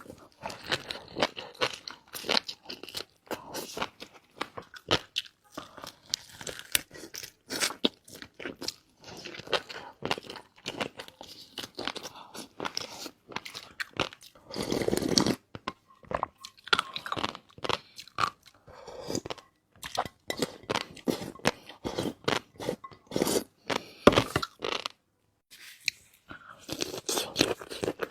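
Close-miked eating sounds: a long run of crisp crunches and wet chewing, with one longer, fuller chewing sound about halfway through and a short pause near the end.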